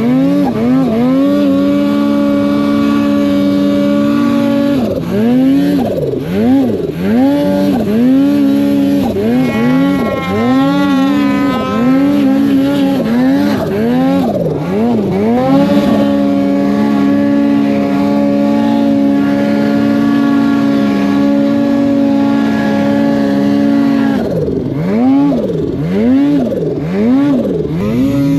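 Snowmobile engine revving hard, its pitch swinging up and down in quick repeated throttle blips, with a longer stretch held steady at high revs in the second half before it blips again near the end.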